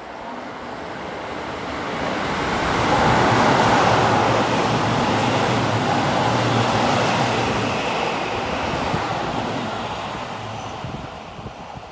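Seibu 001 series Laview limited express train running through the station at speed without stopping. Its rush of wheels on rail builds for about three seconds, stays loud for several seconds with a low steady hum underneath, then fades as the train moves away.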